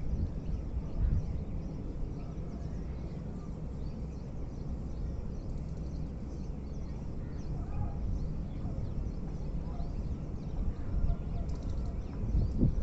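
Outdoor rural ambience: a steady low rumble with faint, scattered bird chirps above it.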